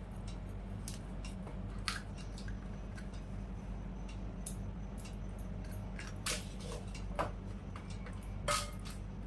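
Crisp fuchka (pani puri) shells being cracked and handled, a scatter of sharp crackles and clicks with the loudest near the end, over a steady low hum.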